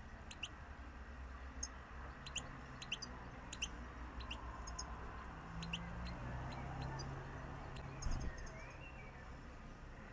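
Small garden birds chirping in short, sharp calls again and again, over a low steady hum, with a dull thump about eight seconds in.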